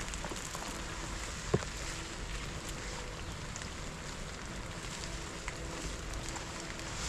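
Steady rain falling, with scattered small crackles and one sharp pop about one and a half seconds in.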